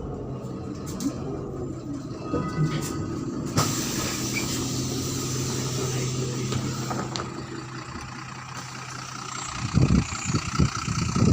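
Inside a MAZ-103 city bus: the diesel engine runs steadily. About three and a half seconds in, a sudden hiss starts and carries on. Near the end come loud, irregular low thumps.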